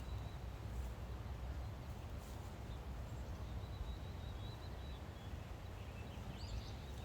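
Outdoor background noise with a steady low rumble, and a bird chirping briefly near the end.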